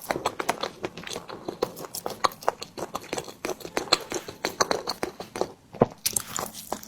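Mouth sounds of someone chewing a soft tiger skin dessert: many quick, irregular wet clicks and smacks.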